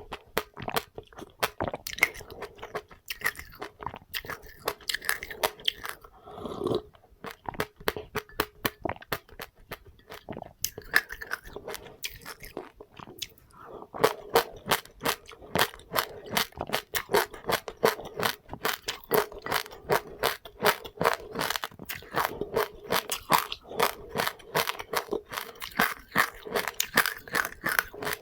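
Close-up crunching and chewing of seeds: a rapid run of sharp crackles, sparser for a while and then denser and louder from about halfway through.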